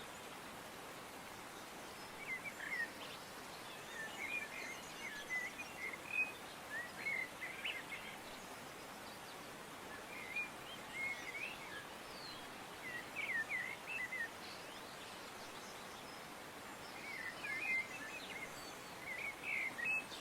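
Small birds chirping and twittering in short clusters of quick notes, with gaps of a second or two between them, over a steady background hiss.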